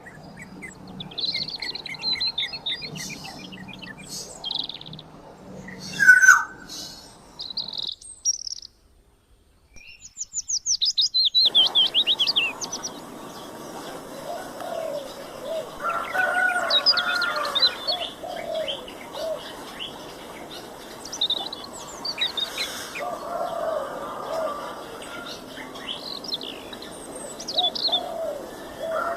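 Black-naped oriole and other birds calling, with a brief break of near silence about eight seconds in. Then comes a fast run of loud, high chirps, followed by more scattered calls with lower calls beneath them.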